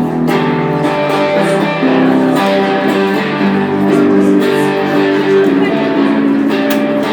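Guitar playing a run of sustained chords that change every half-second or so.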